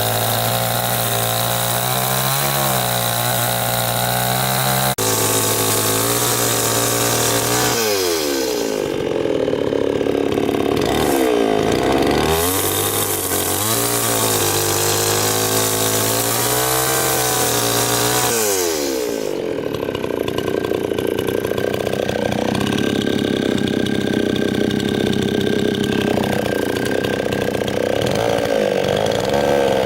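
Small petrol engine of a power tool running continuously. It runs steadily at first, then is revved up and down several times, with stretches of rougher, denser noise where it works under load.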